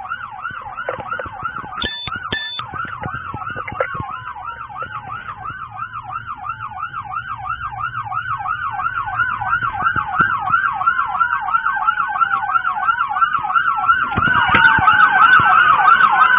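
Several police car sirens sound together: a fast yelp of about four sweeps a second with a slower wail over it. It grows louder near the end as another siren joins. A few short knocks and two brief high beeps come about two seconds in.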